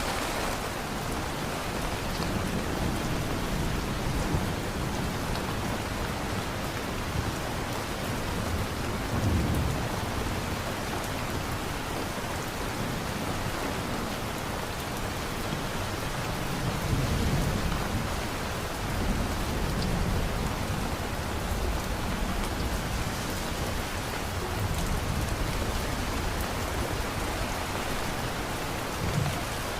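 Steady heavy rain falling, with low rolling thunder swelling up several times, about a third of the way in, past the middle and just before the end.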